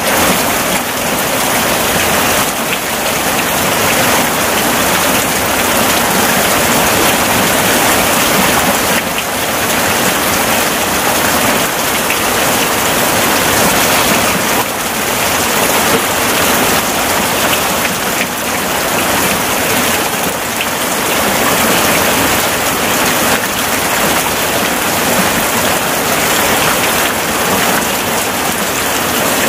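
Steady heavy rain.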